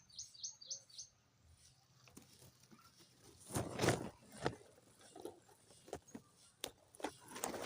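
Sparrows chirping: about five quick high chirps in the first second. Later come a few soft knocks and a louder, brief rustling sound about halfway through.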